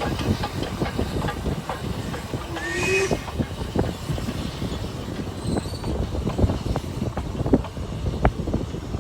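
Narrow-gauge train running on the Ffestiniog Railway, its wheels clattering over the rail joints in a dense, irregular patter, with a brief rising tone about three seconds in.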